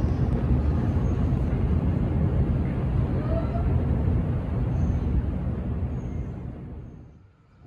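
Loud steady rumble of a commuter train running through a station, dying away over the last second or two.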